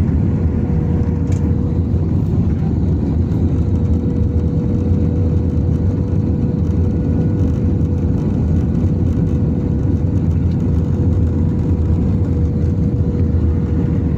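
Steady roar of an airliner cabin in flight: jet engine and airflow rumble with a constant hum over it.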